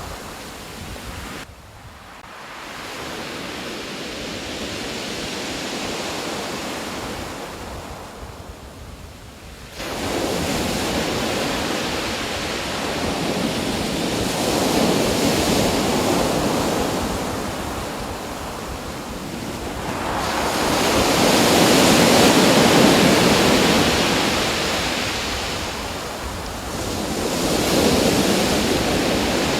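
Ocean surf, waves breaking and washing in, swelling and fading every six or seven seconds, with a sudden rise in level about ten seconds in.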